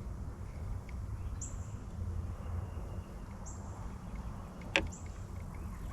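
A bird calling a short, high note about every two seconds over a steady low rumble, with one sharp click near the end.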